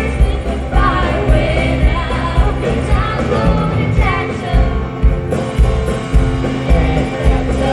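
Live rock band playing a song, with a steady kick-drum beat under bass and guitars and a voice singing over it.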